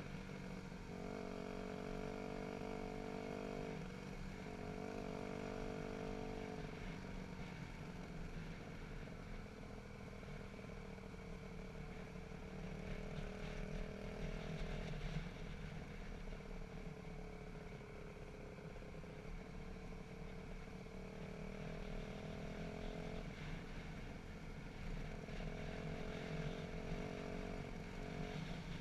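Dirt bike engine running under changing throttle, its note rising and falling throughout, with brief breaks in the note twice in the first few seconds.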